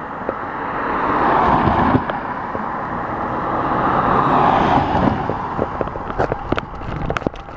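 Road traffic: cars driving past, their tyre and engine noise swelling and fading, with one pass peaking about two seconds in and another about four and a half seconds in.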